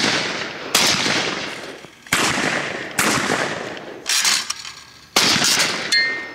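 12-gauge shotguns firing at clay targets: six loud shots about a second apart, each with a long echoing decay.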